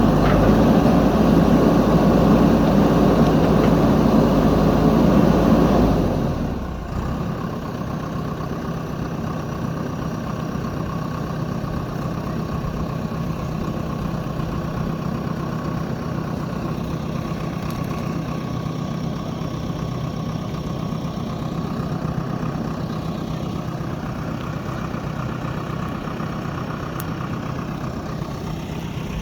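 JCB backhoe loader's diesel engine running loud and hard for about six seconds, then easing off to a steady lower running, close to idle.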